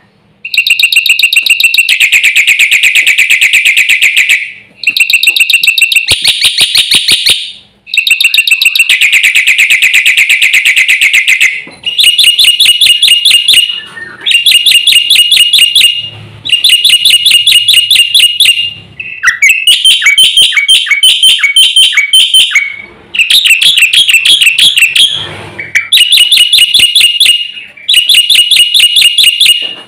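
Black-winged starling (jalak putih) singing loudly in repeated bouts of fast, rapidly repeated high notes. Each bout lasts a few seconds, with short pauses between.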